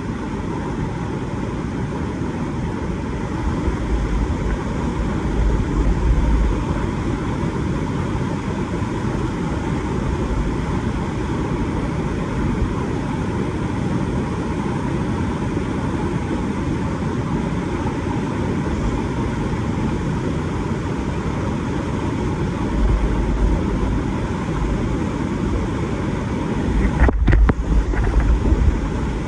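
Creek whitewater rushing steadily, with low buffets of wind on the microphone at about four to six seconds in and again near the end.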